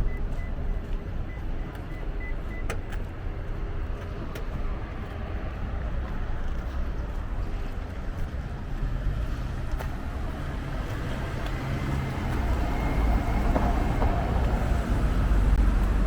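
Street traffic: a road vehicle's engine and tyre noise, growing louder through the second half as it comes close.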